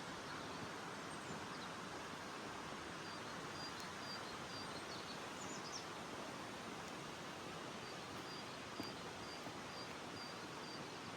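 A bird repeating a short, thin, high note about three times a second, in two runs, over a steady outdoor hiss.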